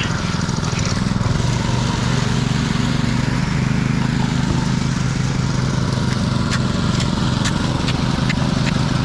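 An engine running steadily with an even drone. Several sharp clicks or taps come in the last few seconds.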